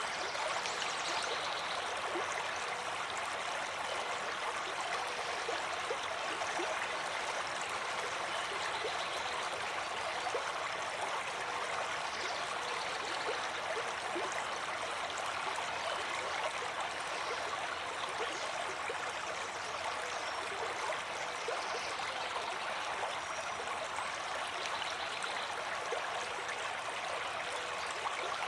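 Flowing stream water: a steady rush dotted with many small splashes and trickles.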